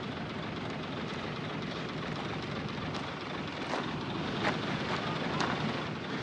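Heavy earthmoving machinery running steadily, with four short sharp knocks in the second half.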